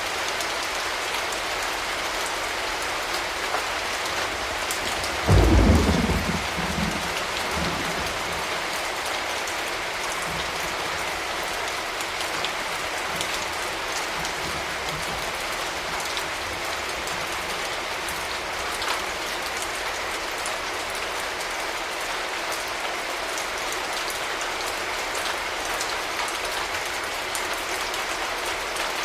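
Steady rain falling, with a sudden clap of thunder about five seconds in that rumbles low and dies away over a couple of seconds.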